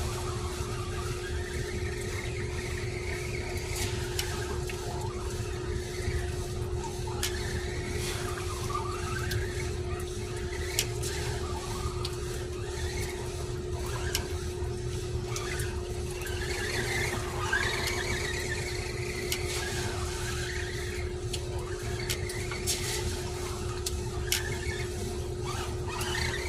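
Arrma Granite electric RC truck's motor whining, rising and falling in pitch over and over as the throttle is worked, its tyres spinning on wet ground. A steady low hum and scattered clicks run underneath.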